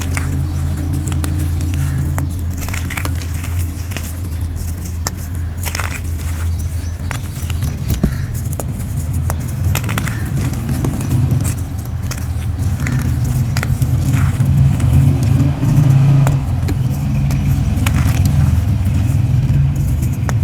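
Moulded grey gym chalk shapes being crushed by hand, crunching and crumbling with many small sharp crackles and snaps over a low, heavy rumble.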